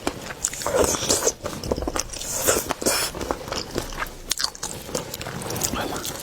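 Close-miked eating of seafood: irregular biting, crunching and chewing, with many sharp clicks and crackles.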